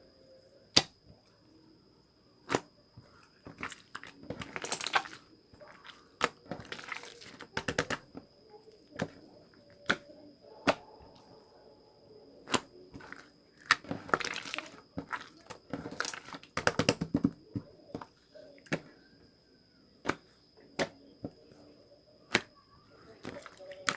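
Slime being played with by hand: sharp single pops and clicks at irregular intervals, with several short spells of dense crackling and squelching as it is pressed and stretched.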